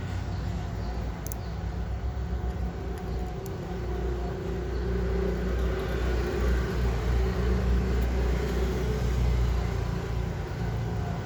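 Low rumble of motor-vehicle traffic, swelling through the middle and easing near the end.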